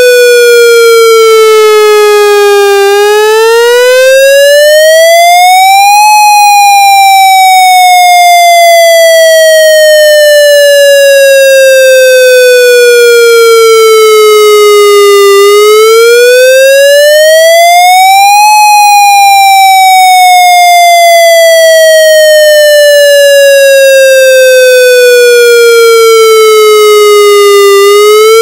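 Federal MCP siren sounding its wail signal, loud and clean. A single pitched tone climbs quickly for about three seconds, then sinks slowly for about nine, and the cycle repeats, twice over plus the start of a third rise at the end.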